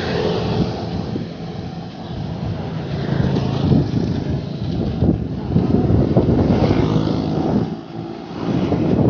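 Road traffic: motor vehicle engines passing by, mixed with wind rushing over the microphone, rising and falling in loudness.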